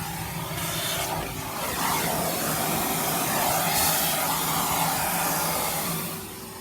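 Vacuum cleaner running: a steady rushing suction noise over a motor hum, quietening about six seconds in.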